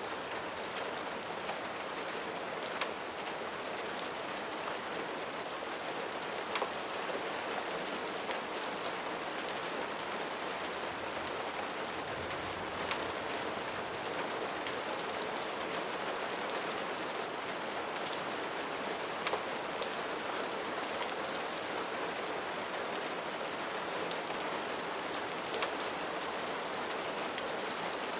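Steady rain falling on a surface, a dense, even hiss, with a few sharper ticks of single drops standing out now and then.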